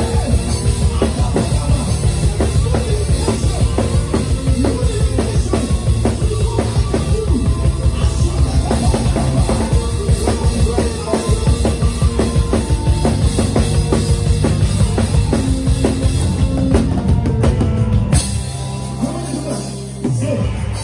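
Live gospel praise band playing a fast instrumental groove: drum kit driving hard over bass and keyboard. About three-quarters of the way through, the drums drop out and only held bass and chord notes remain.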